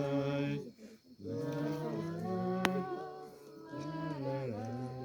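Voices singing a wordless 'lai, lai, lai' melody in drawn-out phrases with short breaths between them. A single sharp click is heard partway through.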